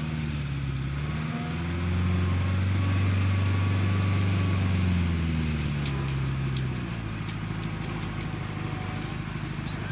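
A vehicle engine running, revving up about a second and a half in, holding the higher speed for a few seconds, then dropping back to idle around seven seconds in. A few light clicks come near the middle.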